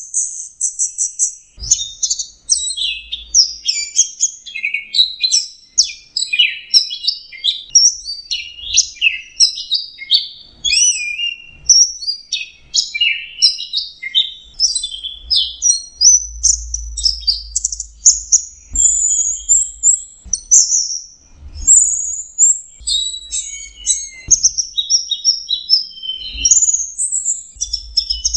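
Orange-headed thrush (anis merah) singing in its 'teler' style, a continuous, rapid string of varied high chirps, trills and whistles with hardly a pause.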